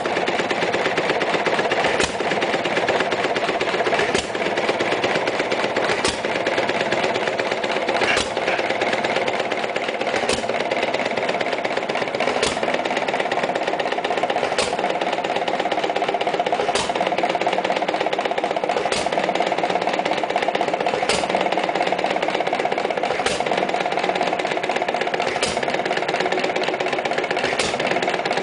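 1928 Macleods 1-3/4 hp hit-and-miss engine made by Nelson Bros. running at 500 RPM through its original muffler: a sharp firing stroke about every two seconds, with the engine coasting between firings.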